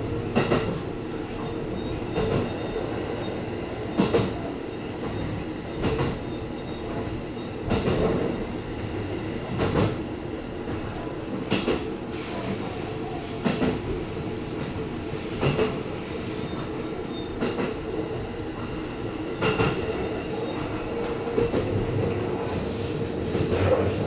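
E257 series electric train running along the track. Its wheels clack over rail joints about every two seconds over a steady running hum.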